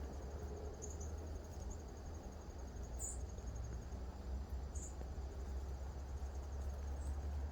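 Crickets trilling steadily in a high pulsing tone, with a few short, higher chirps scattered about a second or two apart. A low, steady rumble runs underneath.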